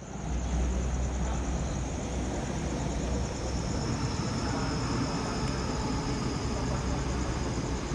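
Electric passenger train running at a station: a steady low rumble with a high, thin whine that slowly falls in pitch as the train slows.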